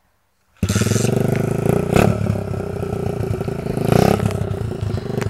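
125cc pit bike engine running loud and close, cutting in suddenly about half a second in and revving up twice.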